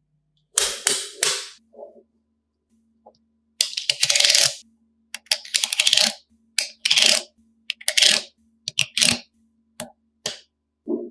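Coloured magnetic building pieces clattering and clicking together in about ten short bursts, as they are picked through and snapped into place.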